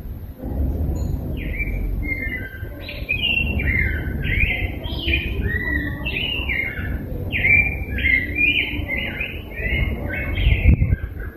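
Rose-breasted grosbeak singing a continuous rich warble of short rising and falling phrases. A low bump sounds near the end.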